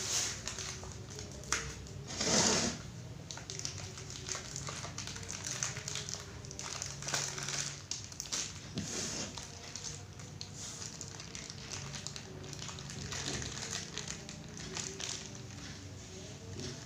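Close-up mukbang eating and handling sounds: scattered clicks, taps and crinkling of food and packaging, with a louder rustle about two seconds in, over faint steady background tones.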